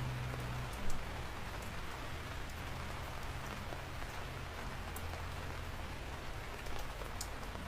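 Steady rain falling, with individual drops ticking sharply on a surface over the hiss and a low rumble underneath; one louder drop hit just under a second in.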